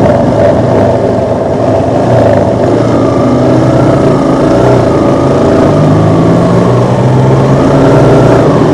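Motorcycle engine running at low speed, its pitch rising and falling gently, over a steady hiss of road and wind noise.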